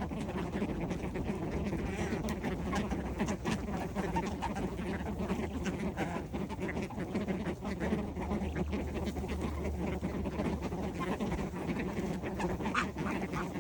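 Ducks quacking, many calls overlapping without a break.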